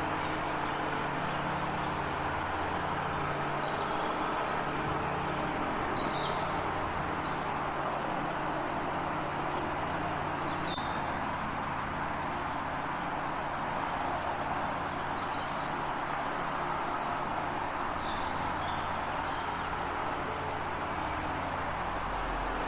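Small birds chirping in short, scattered calls over a steady low rumble and hiss.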